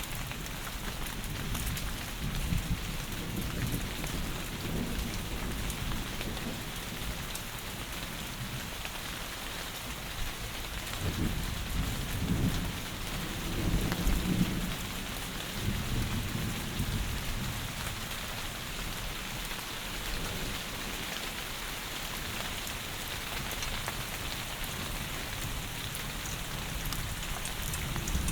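Heavy rain falling steadily, with low rolling rumbles of thunder that build and fade through the middle of the stretch.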